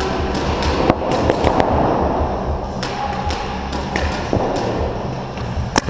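Paintball markers firing scattered single shots, sharp pops at uneven intervals with a close pair near the end, over a steady low rumble.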